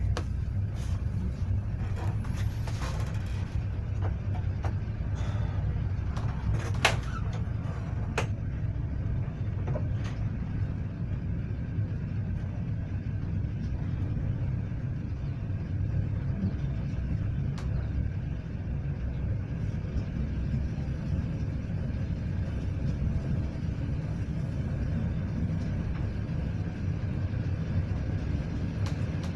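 Passenger train coach running along the line, heard from inside: a steady low rumble, with a few sharp clicks in the first eight seconds or so.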